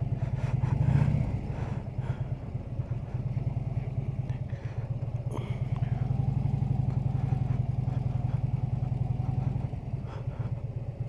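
Harley-Davidson V-twin motorcycle engine running steadily while riding, with wind and road noise; the engine note swells briefly about a second in.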